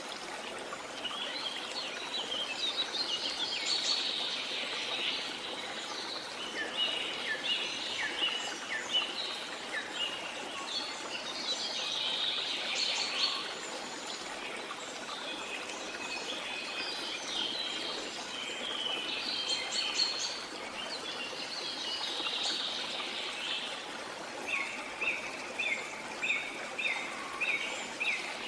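Several birds chirping and singing over the steady rush of flowing water. Near the end one bird repeats a short note about three times a second.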